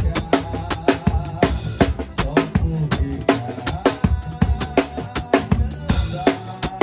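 Drum kit played along to a forró backing track: regular kick and snare hits over sustained bass and keyboard lines, with a cymbal crash about six seconds in.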